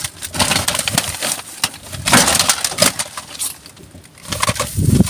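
Rubbish being rummaged through in a bin: rustling, crunching and knocking of items being shifted, with a run of sharp clicks and knocks, busiest about two to three seconds in and briefly quieter near the end.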